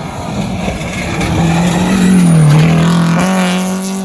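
A rally car passing at speed, its engine and tyre noise swelling to loudest about two to three seconds in, then easing away.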